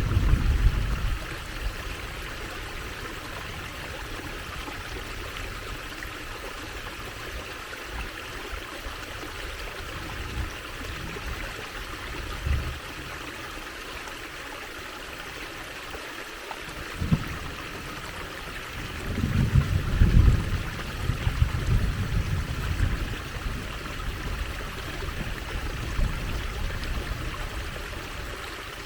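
Trickling water in a stream, a steady even hiss, with deeper rumbling swells that come and go, strongest a little over two-thirds of the way through.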